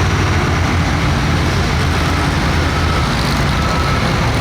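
Heavy diesel engine of a pulling tractor running steadily at low revs, a deep even rumble with no revving.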